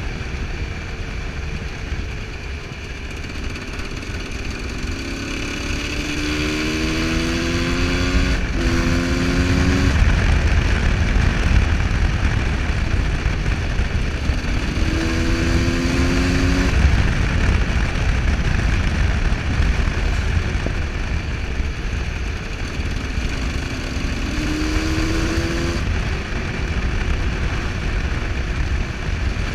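Husqvarna SM125 supermoto engine under way, the revs rising three times as it pulls up through the gears, under a heavy rumble of wind on the microphone.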